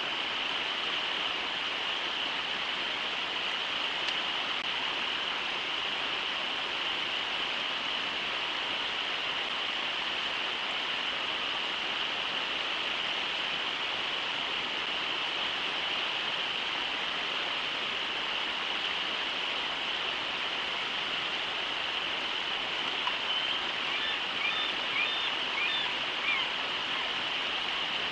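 River water rushing over shallow rapids (riffles), a steady, even roar. Near the end a few short high chirps sound over it.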